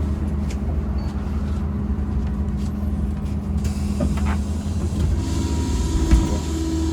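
Cabin noise inside a MAZ-203T trolleybus moving off from a stop: a low rumble and a steady electric hum. A hiss joins about halfway through, and a higher tone from the drive comes in near the end.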